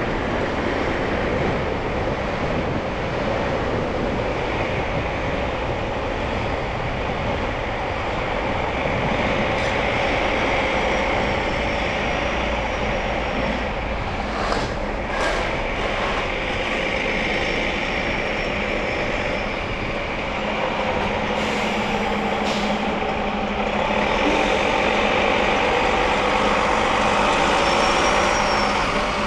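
City traffic heard from a car driving on snowy, wet streets: steady road and tyre noise with passing vehicles. A few short clatters come about halfway through and again a little later.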